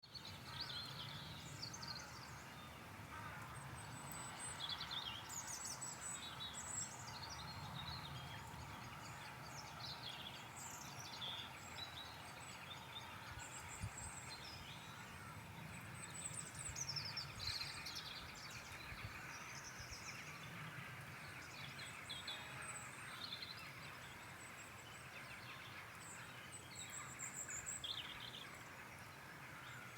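Several birds singing together in a morning chorus, with many overlapping short chirps and trills, over a steady low background hum.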